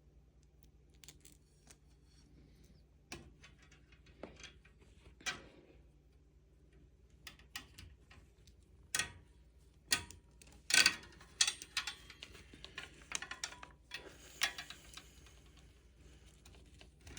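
A screw and washer being fitted and tightened into a raised planter's frame rod and brace by hand: irregular small clicks and clinks of the hardware, with a cluster of louder ones about halfway through.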